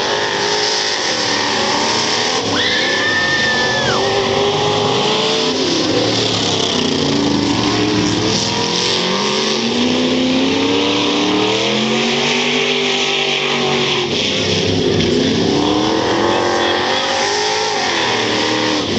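Several dirt-track stock car engines running at racing speed around the oval, their pitch rising and falling in overlapping sweeps as the cars accelerate down the straights and lift off into the turns. A short high steady tone sounds about three seconds in.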